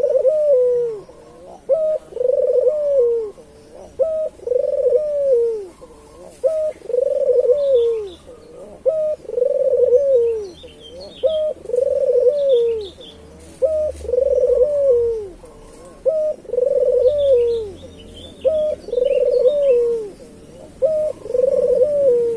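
Puter dove cooing over and over, about every two seconds: each coo a short note followed by a longer, arched note. Small birds chirp faintly in the background.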